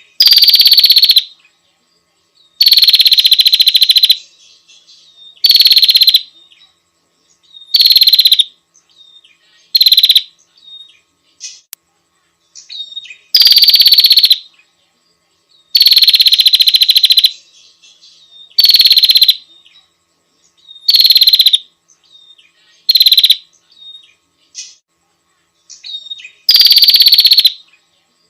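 Female prinia (prenjak) calling to a male: a rapid, buzzy, rattling trill about a second long, repeated about eleven times with pauses of one to three seconds, and fainter short chirps in between.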